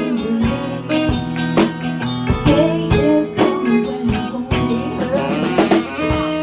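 A rock band playing a song in rehearsal: guitar and drum kit, with sustained chords and regular drum hits.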